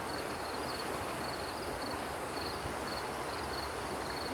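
Outdoor ambience: a steady hiss with an insect chirping in short, high trills repeated every second or so.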